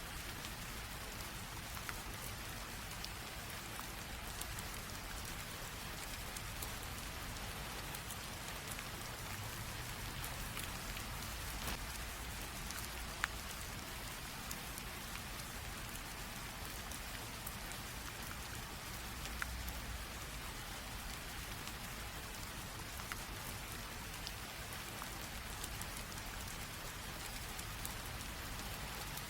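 Steady light rain drizzle with scattered drop ticks on a surface, a few sharper drops standing out now and then.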